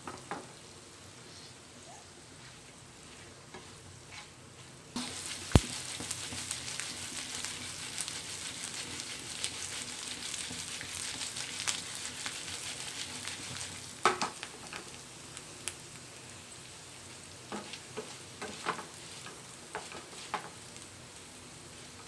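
Baby potatoes sizzling in hot oil in a frying pan while a wooden spatula stirs them, with scattered clicks and knocks. The sizzle grows louder about five seconds in, with one sharp knock, and eases again a little past the middle.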